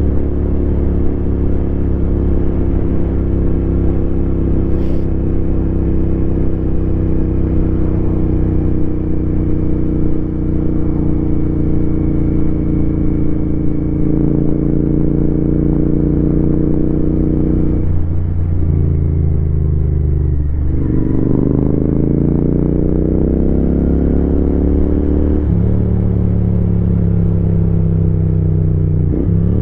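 Royal Enfield Continental GT 650's parallel-twin engine under way, holding a steady pitch that sags slowly for the first half. Just past the middle it eases off, then pulls up through the revs with a gear change about three-quarters of the way in and another right at the end.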